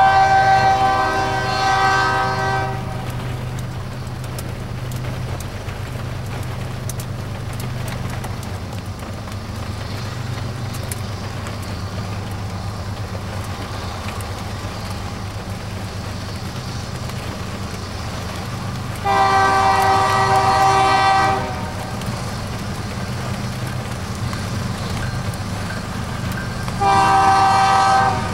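Air horn on BNSF diesel locomotives sounding long blasts for a grade crossing: one at the start, another about 19 seconds in, and a third near the end. Between the blasts, the locomotives' diesel engines rumble steadily as the train approaches.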